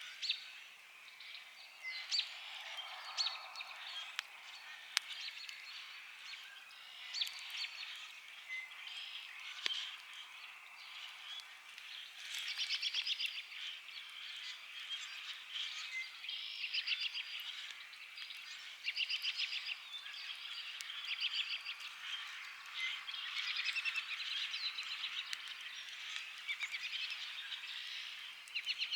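Wood campfire crackling with scattered sharp pops, over an evening background of chirping birds and pulsed trills about a second long that come again and again in the second half.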